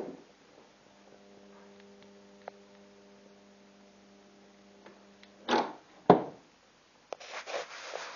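Microwave oven transformer humming steadily at mains frequency, with a stack of even overtones. A little over five seconds in come two loud sharp snaps, and crackling starts near the end.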